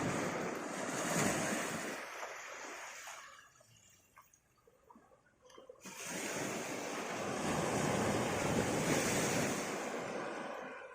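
Sea waves breaking and washing up the beach, two swells each lasting several seconds, with a lull between them about four to six seconds in.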